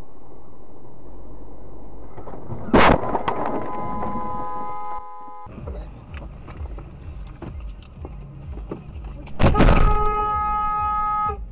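Two car collisions recorded by dashcams: a loud crash about three seconds in and another near the end, each followed by a couple of seconds of a steady pitched tone over road noise.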